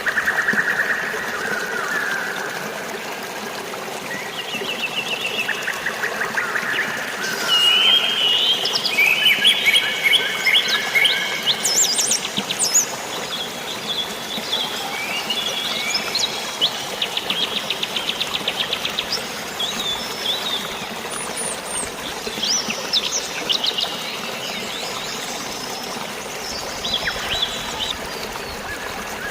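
Several birds singing in quick trills, chirps and whistled phrases, busiest in the first half, over a steady hiss of rain and flowing water.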